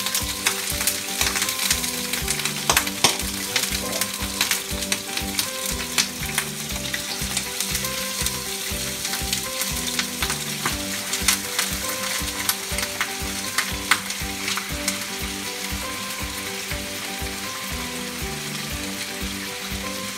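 Chicken pieces sizzling and crackling as they brown in hot olive oil in a frying pan. Background music with a steady beat and a melody plays under it.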